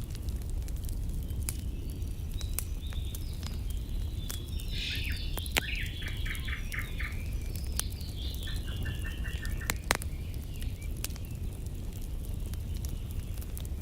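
Campfire crackling with scattered sharp pops, two of them louder. A songbird sings through the middle, a run of quick chirps and trills.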